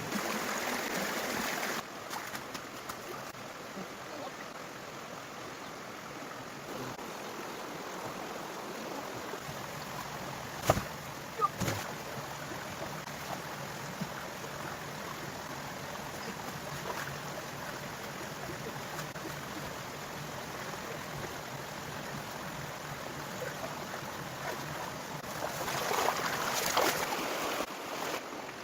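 Steady rushing noise like a running stream, with two sharp knocks about eleven seconds in, and louder noisy stretches at the start and near the end.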